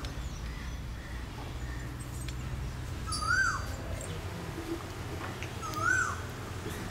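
A bird calling twice, about three seconds apart, each a short call that rises and then falls in pitch, over a steady low rumble.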